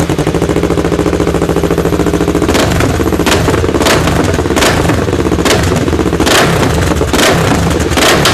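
An engine running with a rapid, even pulse, most likely a motorcycle engine, joined from about two and a half seconds in by loud thumps about every two-thirds of a second.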